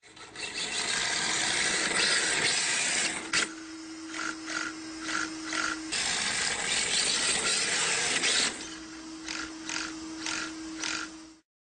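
Electric RC drift car running: a loud scraping hiss, typical of tyres sliding on a hard floor, alternates with quieter stretches of steady motor whine and a run of light ticks. The sound cuts off abruptly near the end.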